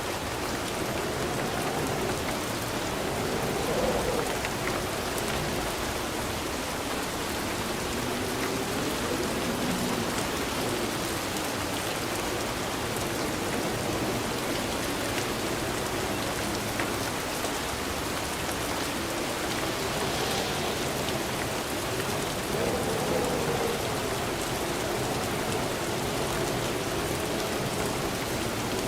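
Steady rain falling: an even hiss, with a lower undertone that slowly rises and falls.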